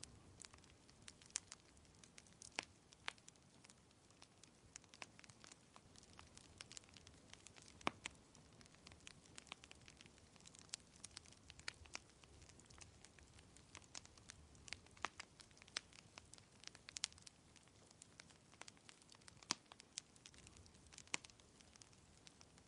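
Wood fire crackling softly, with many small irregular pops and snaps, the sharpest about eight seconds in, over a faint steady low background noise.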